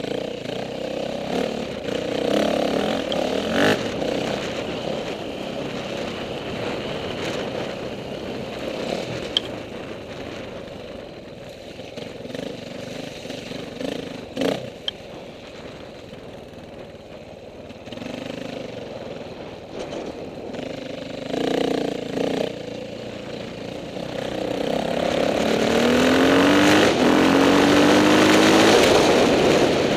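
Off-road dirt bike engines running on a hare scramble course, with a few sharp knocks. Near the end one bike comes close and revs up in a series of short rising sweeps, shifting up through the gears, the loudest part.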